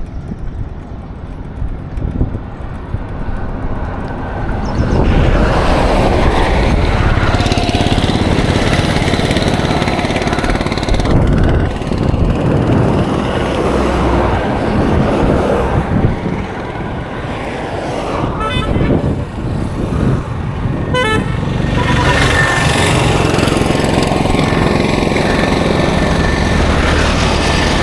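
Road traffic passing close: vehicle engines and tyre noise that grow louder about five seconds in. Horns toot among it.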